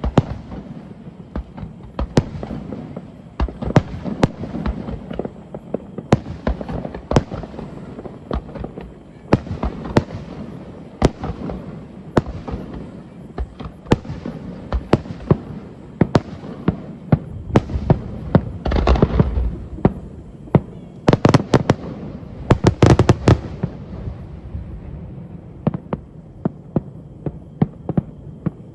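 Aerial fireworks bursting in a continuous series of sharp bangs. About two-thirds of the way in come two dense volleys of rapid popping.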